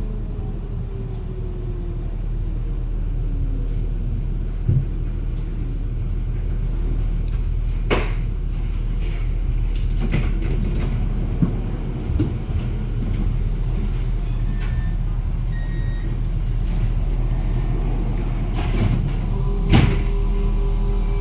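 Inside a Bombardier Flexity tram in motion: a steady low rumble of running gear and rails, with a few sharp clicks and knocks scattered through it, the loudest near the end, when a steady faint tone also comes in.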